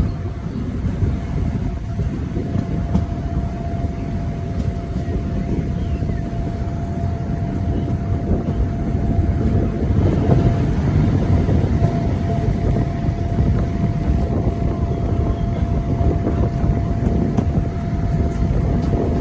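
Diesel locomotive engine running: a low rumble with a thin steady whine above it, growing a little louder about halfway through.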